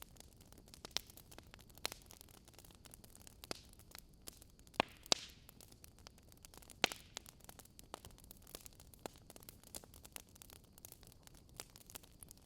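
Burning wood fire crackling: a steady low hiss with frequent small snaps and a few louder pops from the logs.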